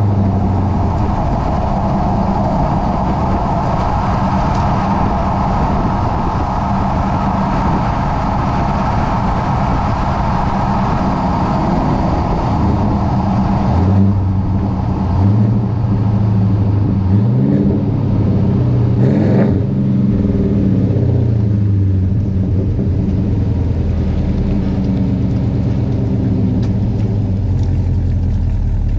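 2018 Chevrolet Silverado with an equal-length exhaust running steadily. About halfway through, the engine speed changes, the pitch climbing and then falling again before it settles back to a steady note.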